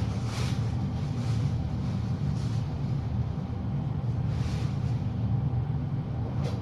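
Steady low background hum, with a few soft scratchy rustles on top.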